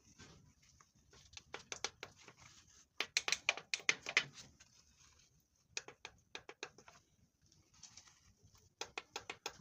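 Runs of rapid ratchet clicks, four in all, the longest and loudest about three seconds in: a ratchet turning the crankshaft of a Caterpillar 3512B engine over by hand to find top centre.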